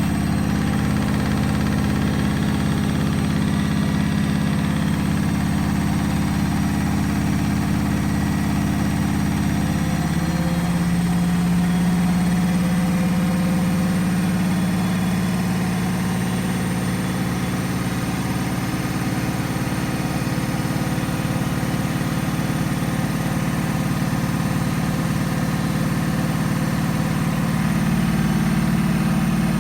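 Bosch Maxx WFL248Y front-loading washing machine in its final spin, the drum running an unbalanced load with a steady loud hum. The pitch of the hum drops about a third of the way in and climbs again near the end.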